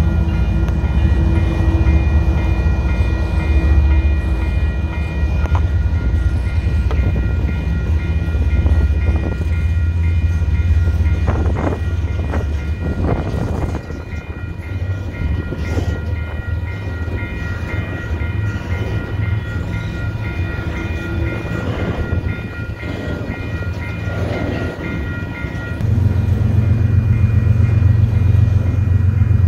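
CPKC freight train rolling through a level crossing with a steady low rumble from its cars and wheels. Over it the crossing's warning bell rings in rapid pulses, and the bell stops near the end.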